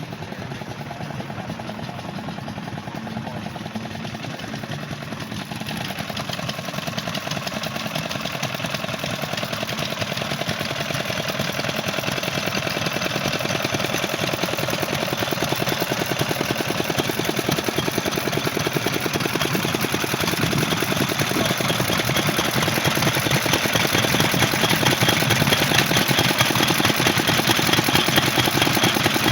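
An engine running at idle with a fast, even chug, growing steadily louder over the whole stretch.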